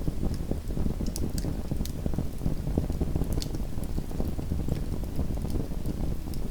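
Small wood fire burning in a fireplace: a steady low rumble of flames with scattered sharp crackles and pops.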